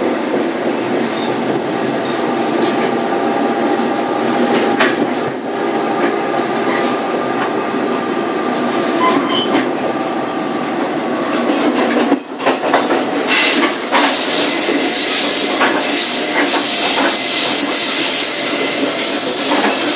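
New Jersey Transit commuter coach running at speed behind an ALP-46A electric locomotive: a steady rumble of wheels on rail with occasional clicks. About twelve seconds in the sound dips briefly, then comes back louder with a strong hiss, heard from the car's end vestibule next to the locomotive.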